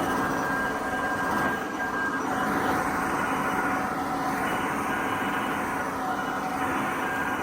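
Electric power tool motor running steadily: a constant hum and whine over a hiss.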